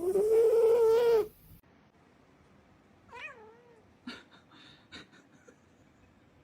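A cat gives a loud, drawn-out yowl lasting just over a second, then a shorter meow about three seconds in. A few faint clicks follow.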